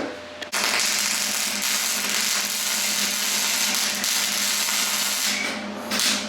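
A power tool working the truck's sheet metal during rust repair. It makes a steady, harsh noise that starts about half a second in and stops near the end, followed by a brief burst.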